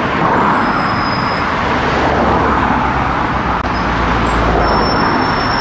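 Steady road-traffic noise of a running motor vehicle.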